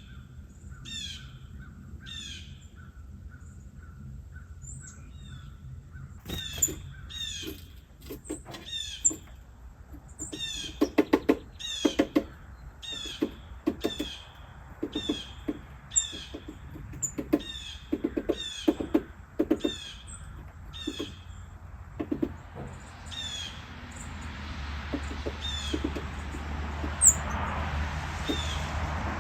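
Small birds calling over and over, short falling high-pitched calls about once a second, with a run of low knocks in the middle.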